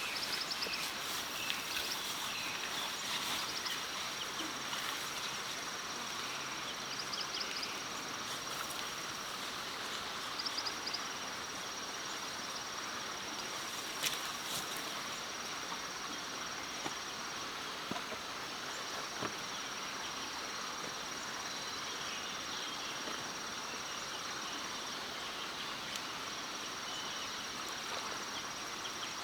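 Forest ambience: an insect's steady high-pitched trill over a constant hiss of running stream water, with a few small scattered clicks and knocks, one a little louder about halfway through.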